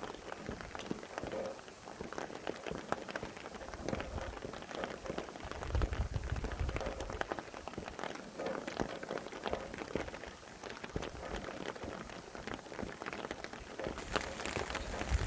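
Rain falling steadily, many separate drops striking a surface, with low rumbling gusts of wind about six seconds in and again near the end.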